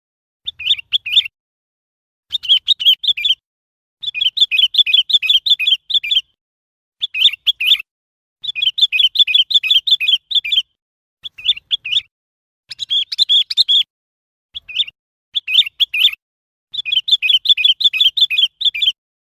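Sooty-headed bulbul calling: runs of quick, high chirping notes, each run lasting from about half a second to two seconds, with short pauses between them.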